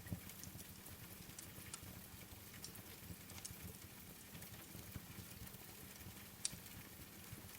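Wood fire crackling with scattered sharp pops, one louder pop about six and a half seconds in, over a soft, steady hiss of rain.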